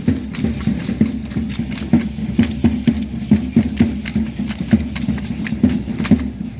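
Matachines dance footwork and percussion: a quick, continuous run of sharp stamps and strikes, several a second, over a steady low drone.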